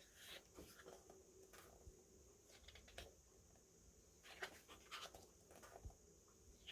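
Faint, irregular rustling and light taps of paper and plastic goods being handled and unpacked.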